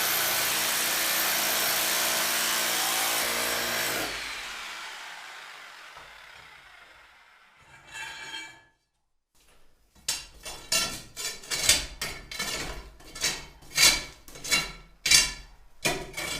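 A power tool runs steadily, then switches off about four seconds in and winds down slowly. After a pause, a series of rhythmic hand-tool strokes follows, about two a second, like sawing.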